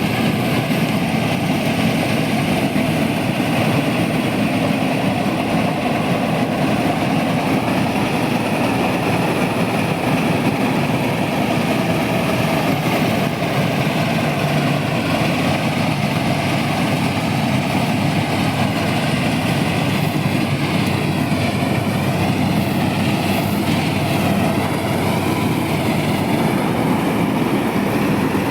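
KS 9300 combine harvester running steadily, a continuous loud mechanical drone.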